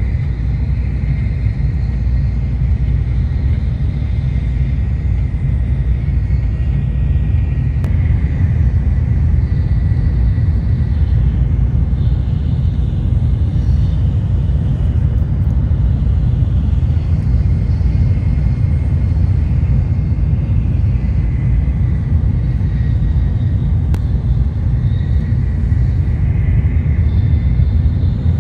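Shinkansen bullet train running at speed, heard from inside the passenger cabin: a steady low rumble with a faint high whine above it.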